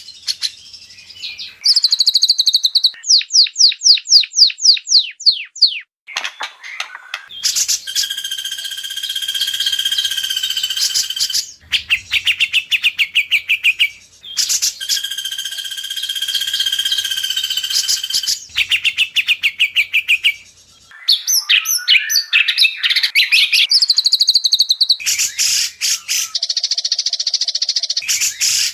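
White-rumped shama song from an edited training recording: a fast run of short falling whistles, then two long buzzy trills with a pause between them, chattering phrases, and a fast rattling trill near the end.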